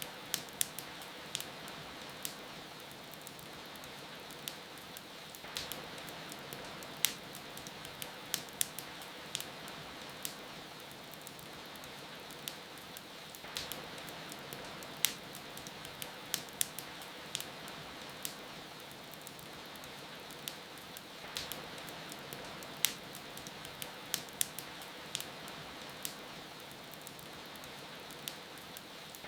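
Wood fire crackling with irregular sharp pops and snaps over a steady hiss of rain.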